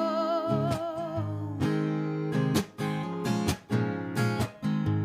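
A woman's held sung note with vibrato trails off about a second in, then an acoustic guitar is strummed in chords, with a few short pauses between strokes.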